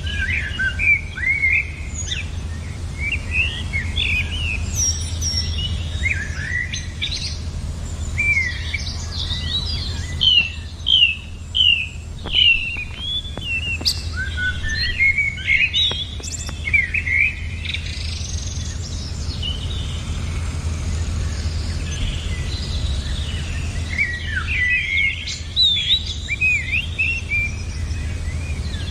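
Small birds chirping and singing in quick, short notes that swoop up and down, loudest and busiest around the middle, over a steady low rumble.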